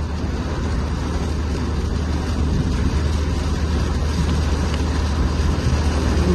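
A vehicle running: a steady low rumble with an even hiss over it.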